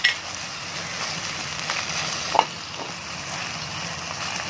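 Onion, tomato, chilli, mint and ginger-garlic paste sizzling in oil in a miniature pan while being stirred with a small spoon. The spoon clinks sharply against the pan at the start and again about two and a half seconds in.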